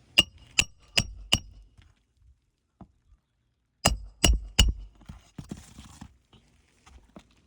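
Hammer driving a roofing nail into an asphalt shingle: four sharp ringing metal strikes about 0.4 s apart, then a pause, then three more strikes about four seconds in.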